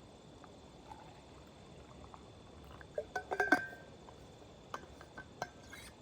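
Small hard objects clinking and tapping, each with a brief ring, in a quick cluster about three seconds in and a few scattered clinks near the end.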